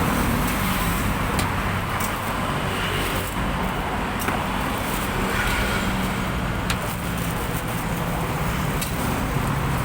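Steady road traffic noise with a low engine hum and a few light clicks.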